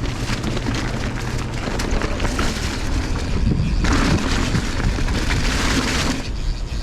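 Mountain bike descending a dirt trail at speed: wind buffeting the helmet camera's microphone over the rumble of knobby tyres and the rattle of the bike. The rush grows louder from about four seconds in to a little after six.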